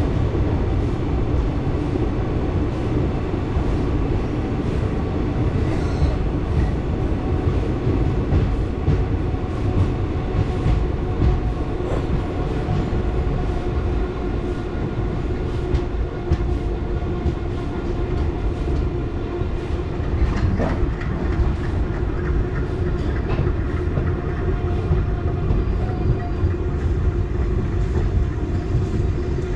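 Passenger train running at speed: a steady rumble with wheels clicking over rail joints now and then.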